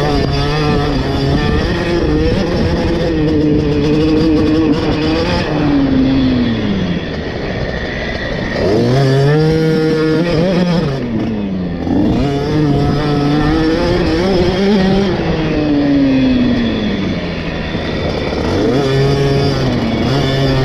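KTM 50 SX's small two-stroke single-cylinder engine heard from the bike, the revs dropping off and picking back up several times as it is ridden around the motocross track, with noise from the air rushing past underneath.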